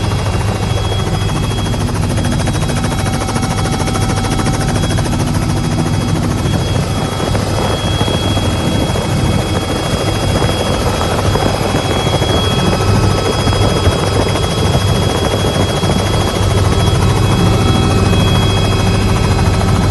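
An engine running steadily with a rapid, even pulsing and a constant drone.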